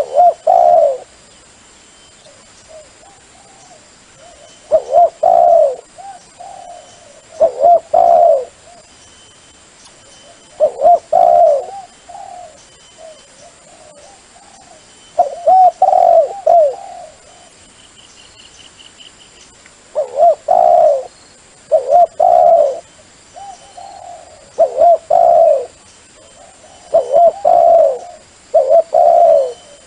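Doves cooing, a loud low coo phrase about a second long repeating every two to three seconds, with softer notes between. It is a dove-call recording used as a lure to draw wild doves to a decoy.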